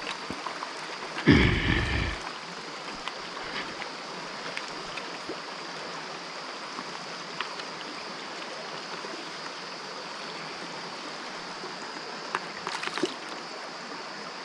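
Mountain stream running steadily over rocks at low water. About a second and a half in a short, loud low bump stands out, and a few light clicks come near the end.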